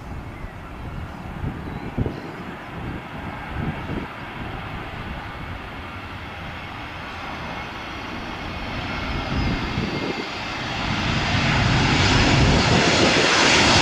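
Airbus A320 jet engines growing steadily louder as the airliner comes in to land, loudest near the end. Gusts of wind buffet the microphone in the first half.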